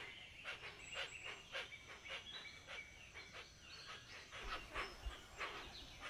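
Faint bird calls in the forest: a quick series of short, sharp calls, about three a second, with a brief pause in the middle, over a thin, steady high tone.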